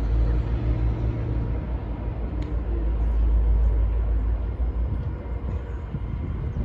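Low, steady rumble of a loaded coal train's diesel locomotives approaching from a distance.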